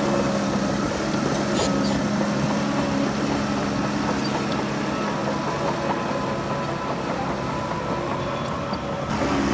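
Heavy diesel engines of earthmoving machinery, a bulldozer and dump trucks, running steadily. A couple of faint knocks come between one and a half and two seconds in.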